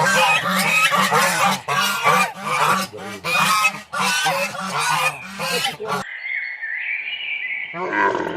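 Loud, rapid animal calls crowding over one another for about six seconds, then a thinner high-pitched call until a new loud call starts near the end.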